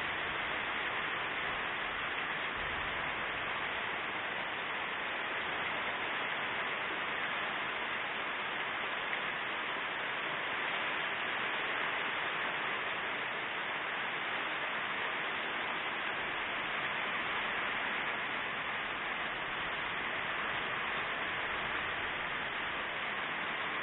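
Rain from a thunderstorm falling steadily: a dense, even hiss with no thunder or other distinct sounds standing out.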